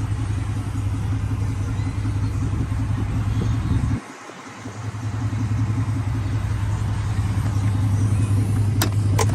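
A 1997 Chevrolet Silverado's 5.0-litre V8 idling steadily through a Flowmaster muffler. The sound cuts out abruptly about four seconds in and returns within a second, and a couple of sharp clicks come near the end.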